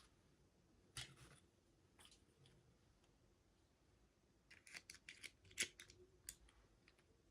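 Faint clicks and crinkles of hands opening small toy packaging, with a quick run of clicks about five seconds in.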